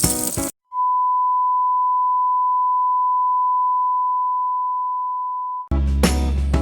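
Background music stops about half a second in, giving way to one long, steady, high-pitched electronic beep of a single tone that lasts about five seconds and fades slightly. Music with a regular beat comes back near the end.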